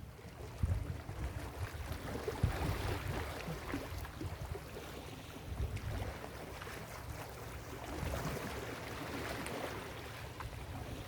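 Ocean surf breaking and washing up a beach, swelling twice, with gusts of wind rumbling on the microphone.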